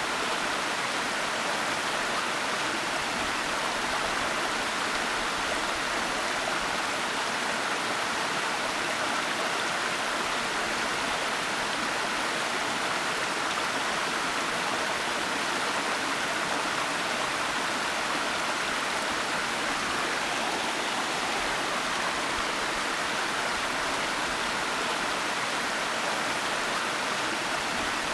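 Waterfall: water falling and rushing with a steady, even hiss that does not change.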